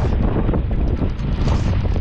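Wind buffeting the microphone, loud and steady.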